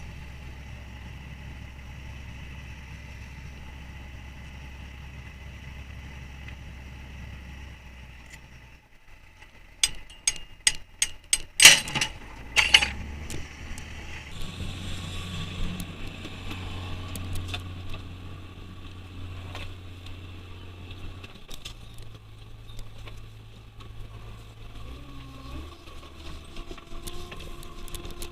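Fishing trawler's engine running steadily, then dropping away. A quick run of about ten sharp metallic clanks follows, after which machinery runs again with a steady drone that shifts in pitch twice.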